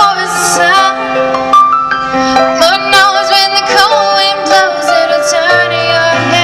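A woman singing a slow song with vibrato over held accompaniment notes.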